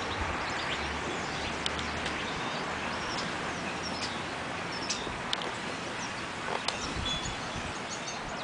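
Small birds chirping: scattered short, high chirps over a steady outdoor background hiss, with a few light clicks.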